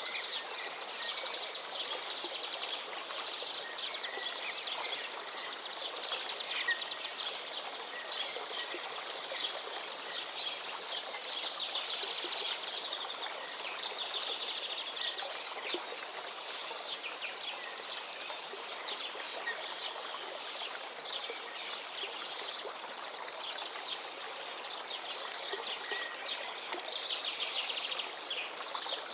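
River water flowing steadily, with birds chirping over it throughout.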